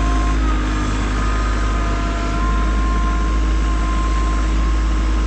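Kubota B2650 compact tractor's three-cylinder diesel engine running steadily, heard from inside the cab, with a few steady whining tones over the low rumble. The hydraulics are still cold, so the loader moves slowly.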